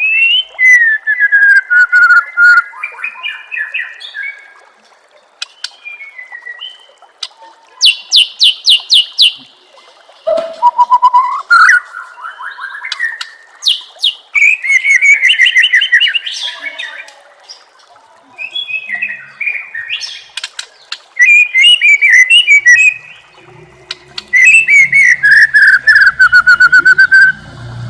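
White-rumped shama (murai batu) singing in loud, varied phrases: clear whistles that slide down in pitch alternate with rapid runs of sharp, clicking notes and a rising whistle, with short pauses between phrases.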